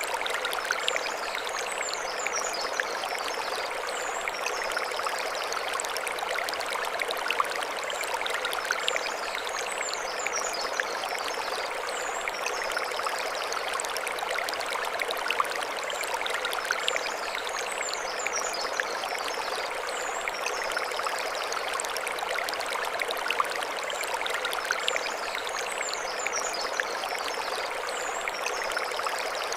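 Mountain stream flowing steadily over stones, an even rushing babble. A short high chirping phrase recurs about every eight seconds.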